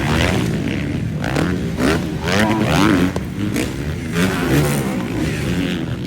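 Several motocross bikes racing around the track, their engines repeatedly revving up and dropping back as riders accelerate, shift and clear the jumps. The overlapping engine notes rise and fall throughout.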